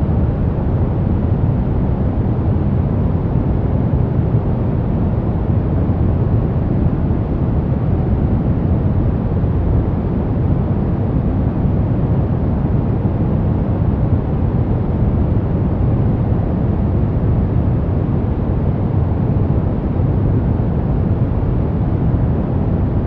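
Steady, unchanging electronic noise, sold as white noise for sleep. It has a deep, low-heavy rush rather than a bright hiss.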